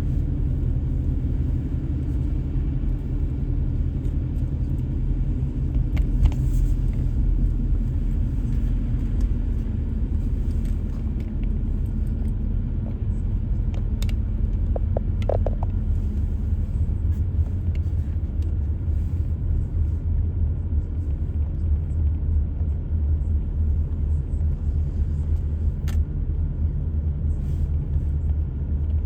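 Car driving along the road: a steady low rumble of engine and tyres, with a few brief clicks.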